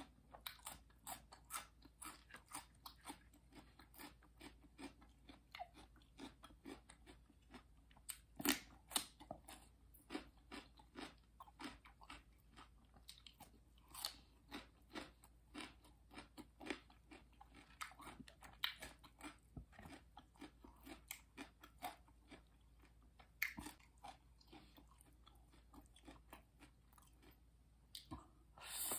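Close-up chewing and biting of crisp raw vegetables, with many sharp, irregular crunches several times a second and a louder crunch near the end.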